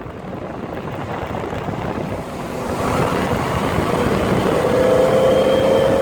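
Performance car accelerating hard in a roll race, with engine and rushing noise growing steadily louder. A steady whine comes in about four and a half seconds in.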